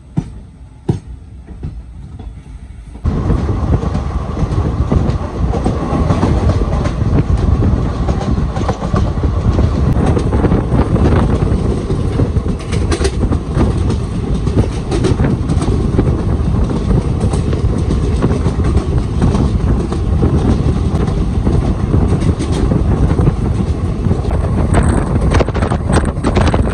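Ananthapuri Express passenger train running at speed, heard from on board: a loud, steady rumble with wheels clicking over rail joints. About three seconds in, the sound jumps suddenly from a quieter train rumble to this loud run.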